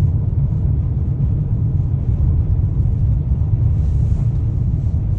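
Steady low rumble of a car driving on a highway, with road and engine noise carrying on evenly.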